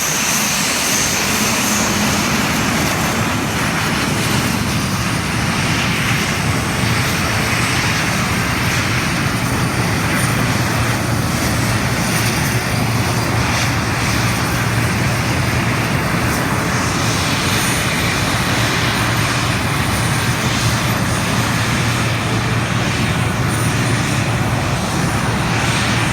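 Jet engines of the Snowbirds' Canadair CT-114 Tutor jets, each a single GE J85 turbojet, running steadily on takeoff, with a thin high whine above the broad jet noise.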